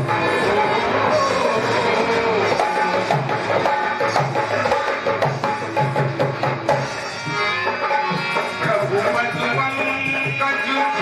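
Devotional instrumental music: tabla playing a running rhythm under a held melody line, with no clear singing.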